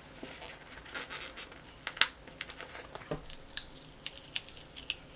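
Paper stickers and foil being handled and pressed onto a planner page: scattered light clicks and taps with some crinkling of sticker sheets.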